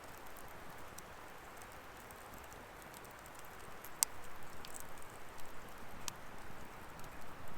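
Wood fire burning: a soft, steady hiss with sparse crackles and pops, a sharp pop about four seconds in and more crackling after it.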